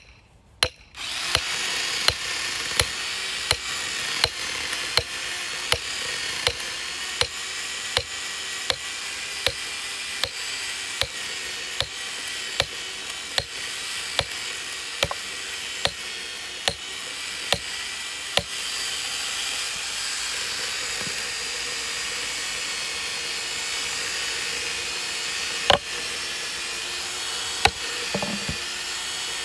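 Power saw starting about a second in and running steadily as it cuts a piece of firewood in half. Through the first eighteen seconds or so, a sharp tick comes about every two-thirds of a second.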